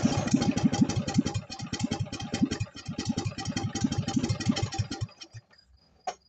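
1967 Jacobsen Chief garden tractor's engine catching and running loud with fast, uneven exhaust pops for about five seconds, faltering once partway, then dying. It catches again for an instant near the end.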